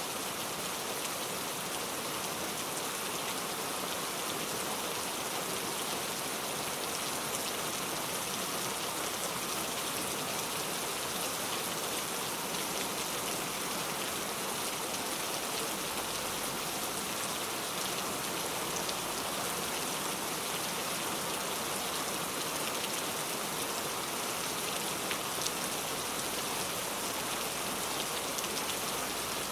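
Heavy rain falling steadily, a dense even hiss with fine patter of drops on a surface.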